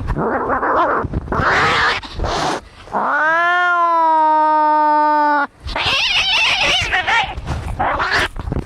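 Cats fighting: harsh hissing and spitting, then about three seconds in one long yowl that rises and holds a steady pitch for over two seconds, cut off sharply, followed by more hissing.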